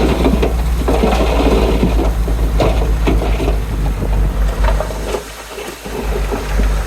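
Heavy bulldozer with its diesel engine running low, with clanks and scraping from its tracks and blade pushing soil. The engine note drops away briefly about five seconds in, then comes back.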